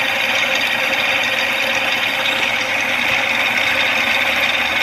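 A small motor-driven device running steadily with a fast, even rattling buzz.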